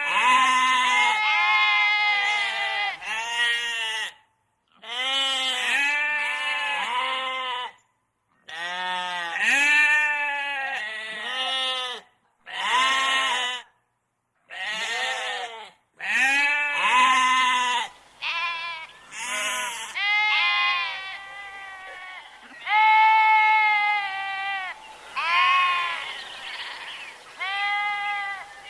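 Sheep bleating over and over, one wavering call after another. In the first half the calls are separated by abrupt cuts to silence.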